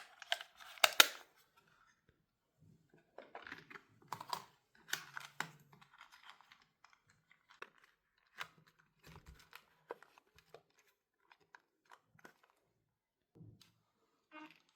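Small objects and packaging being handled: irregular clicks, taps and rustles, loudest in the first second and again around the middle, then scattered light ticks.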